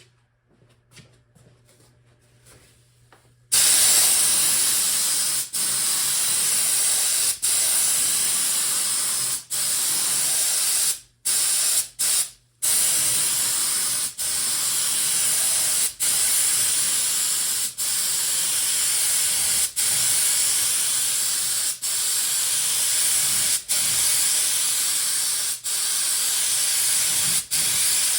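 Paint spray gun spraying clear coat: a steady loud hiss that starts about three and a half seconds in, broken by short gaps about every two seconds, with two longer pauses near the middle.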